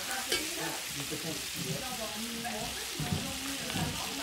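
Sliced creole sausages frying with onions and fresh thyme in a pot, sizzling with a steady hiss.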